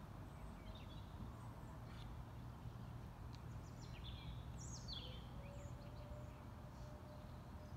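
Wild birds chirping in short, quick calls, busiest in the middle, over a steady low outdoor rumble.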